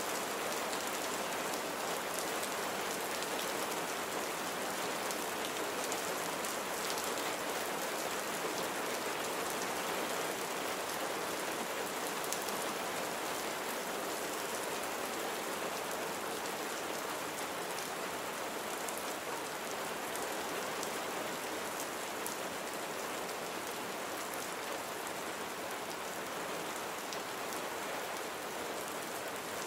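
Steady rain falling and pattering on surfaces, with scattered faint drop ticks and no thunder.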